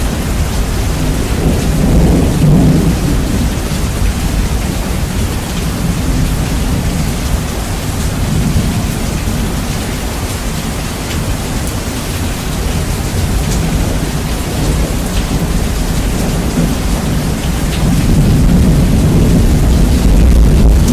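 Steady heavy rain with rolling thunder, bass-boosted so the low rumble is heavy and loud. The rumble swells about two seconds in and builds again near the end.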